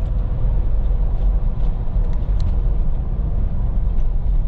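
The 4.6-litre V8 of a 2013 Lexus GX460 with a Magnaflow muffler, heard from inside the cabin while driving at road speed. It makes a steady low rumble mixed with road noise.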